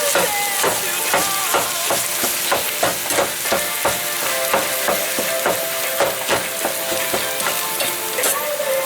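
Ground beef frying in a pan and being stirred, with about two scraping strokes a second over the sizzle. Music plays underneath.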